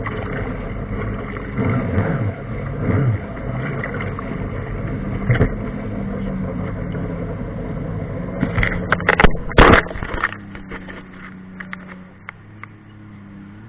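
Jet ski engine running and revving, its pitch rising and falling, with a few sharp loud knocks about nine seconds in, after which the engine settles lower and quieter.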